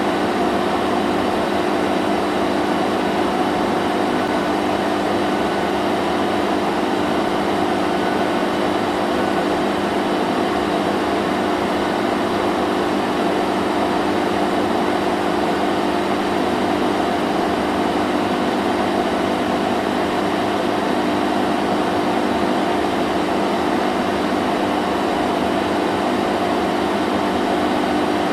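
Vacuum cleaner running continuously at a steady speed: an even motor hum with a rushing air noise, unchanging.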